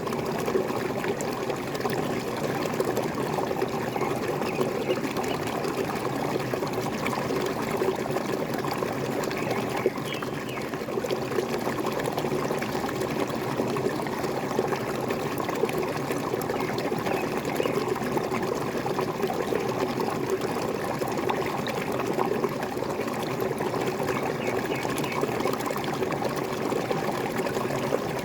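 Waterfall: falling water splashing and gurgling steadily.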